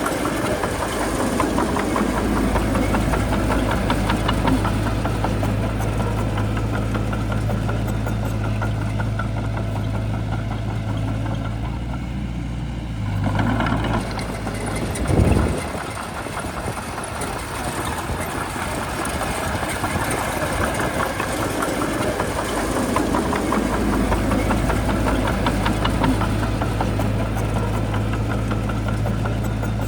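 Heavy diesel engine of a Shantui bulldozer running steadily under work. About halfway through the engine note dips and changes, with a short louder surge.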